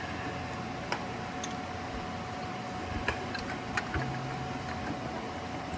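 A few light clicks and knocks of metal parts being handled over a steady hum, as the engine is worked into line with the transmission.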